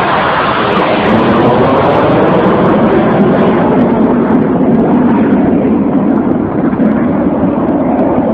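Fighter jet engine roar as a jet flies low past, loud and steady, dipping slightly about six seconds in.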